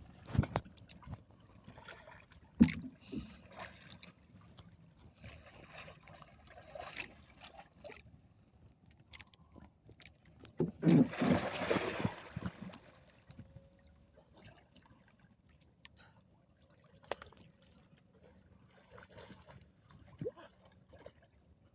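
Water and knocking sounds around a small fishing boat at sea. Scattered knocks and taps run through, with a louder rushing splash of water about eleven seconds in.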